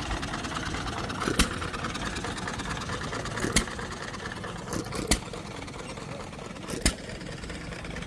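An engine running steadily, with sharp bangs at uneven intervals of one to two seconds standing out above it.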